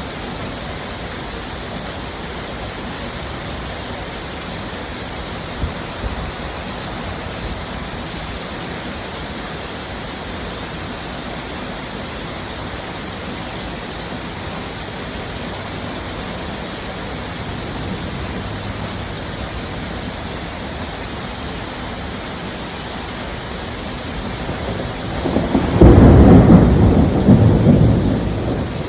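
Steady heavy rain, with a loud clap of thunder near the end that rumbles on for a few seconds.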